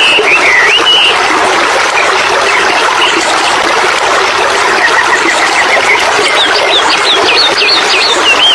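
A songbird singing quick phrases of sweeping whistles, once at the start and again near the end, over a loud steady noise.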